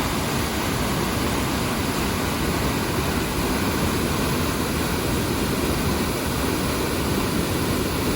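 Tye River cascading over a waterfall and churning through a sharp turn in its rock channel: a steady, unbroken rush of water.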